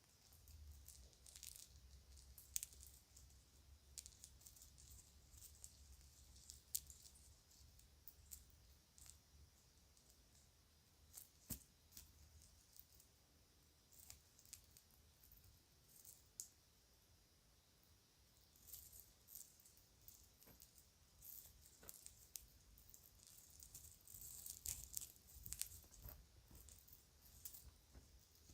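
Children's plastic jewelry and its packaging bag being handled: scattered small clicks and rattles with crinkling, coming in denser clusters in the last third.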